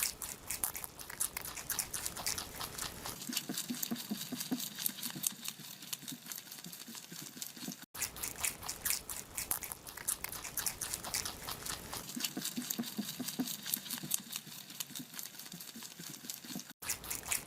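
Rabbits chewing food, a rapid run of fine crunching clicks with a brief break partway through.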